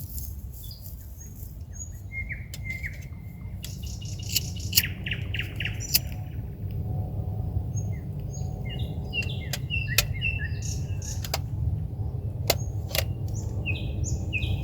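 Songbird singing at night: a varied song of sharp clicks, short whistled notes and trills, busier after the first few seconds, over a steady low rumble.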